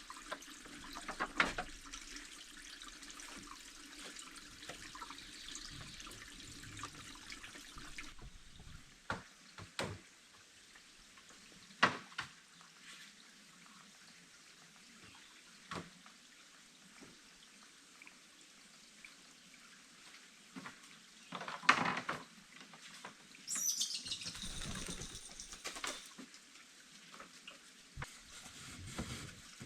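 Water being handled, with a faint steady wash and a dozen scattered sharp knocks, the loudest about 12 and 22 seconds in. A high, falling whistle sounds about 24 seconds in.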